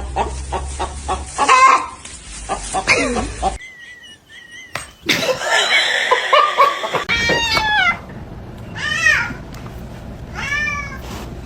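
Domestic cat meowing: several drawn-out meows, three clear ones in the second half, each rising and falling in pitch.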